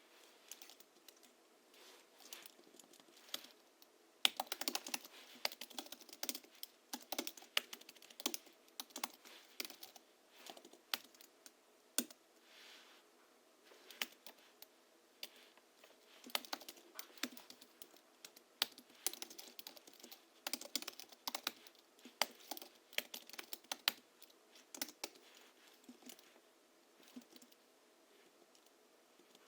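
Typing on a Hansung GHL-5X keyboard with springs lubricated with a Krytox 103/107 mix and 50 g rubber domes, tuned for a deep thock: keystrokes come in quick runs with short pauses, busiest from about four to eight seconds in.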